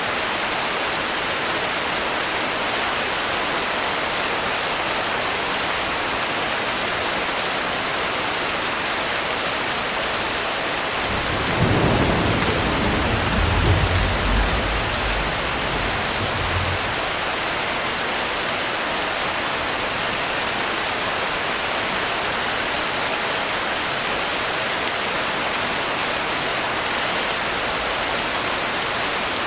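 Steady rain, with a low roll of thunder rising about eleven seconds in and rumbling for some six seconds before fading back into the rain.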